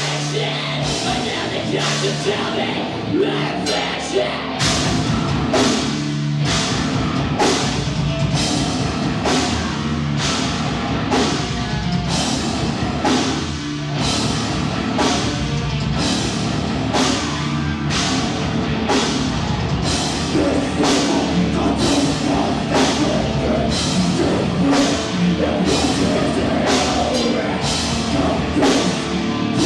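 Live heavy rock band playing loud through a venue PA, drum kit and amplified instruments together. A steady, pounding drum beat comes in about four seconds in.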